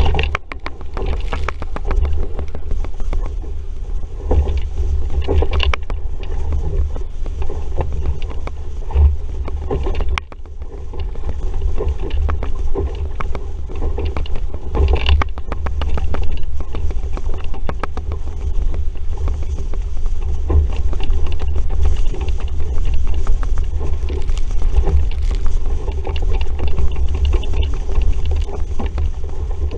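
Strong wind buffeting the microphone in a steady, gusting rumble, over water rushing and splashing along a sailing dinghy's hull, with scattered knocks.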